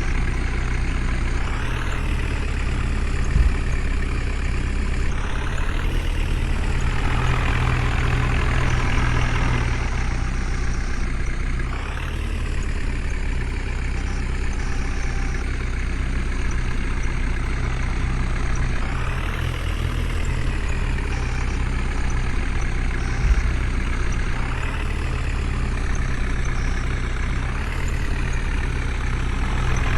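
Heavy diesel engine running, its speed rising and easing off several times, with two sharp knocks, one a few seconds in and one about three-quarters of the way through.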